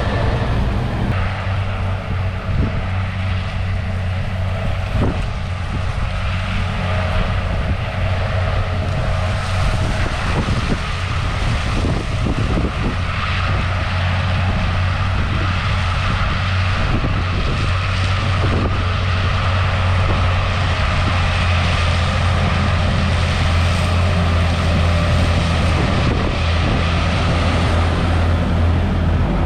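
Heavy diesel farm machinery running steadily, a constant low engine drone with broad mechanical noise over it.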